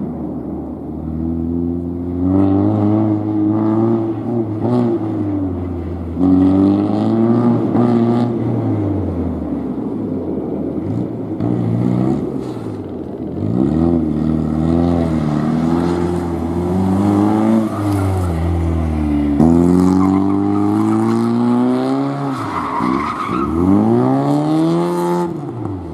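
A car's engine revving hard through a gymkhana course, its pitch climbing and dropping again and again as it accelerates and brakes between tight turns, with the tyres squealing at times.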